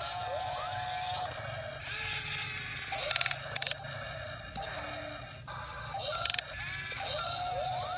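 Small electric motors of a toy RC excavator whining up and down in pitch, with a few sharp clicks about three seconds in and again past six seconds.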